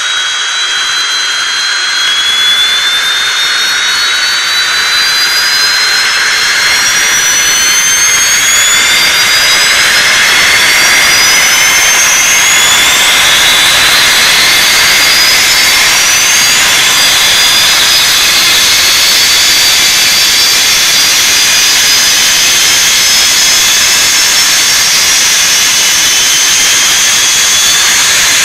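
Sampled Me 262 twin jet-turbine startup sound played by a Benedini TBS Mini RC sound module: two turbines spooling up, with whistling whines that climb slowly in pitch one after another over a loud steady rush. The sound builds over the first ten seconds or so, then holds as the run-up continues toward idle.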